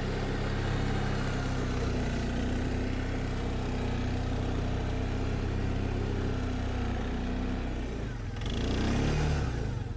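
Off-road vehicle engine running steadily under load on a slippery, wet snow trail, the machine struggling for grip; near the end the engine speeds up and gets louder.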